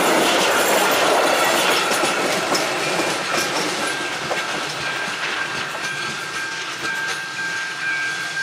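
Passenger coaches of a steam-hauled train running past close by, their wheels clattering over the rail joints, the sound fading steadily as the train draws away down the line.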